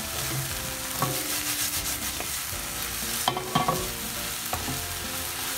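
Diced eggplant sizzling in a hot nonstick frying pan while a wooden spatula stirs it, scraping and knocking against the pan a few times. The steaming water has boiled off, so the eggplant is now frying in the oil.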